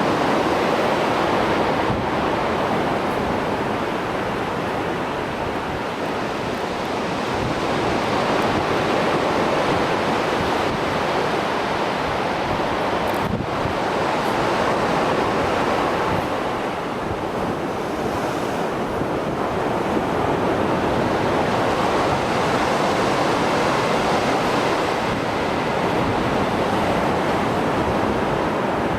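Mediterranean Sea surf after a storm: waves breaking and washing in a continuous rush that swells and eases slowly.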